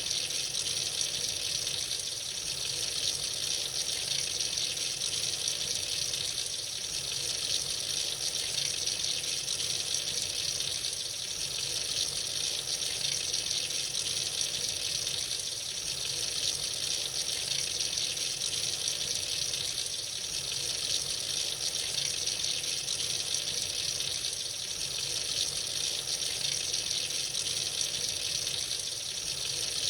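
Tap water running freely into a sink, a steady, even splashing flow.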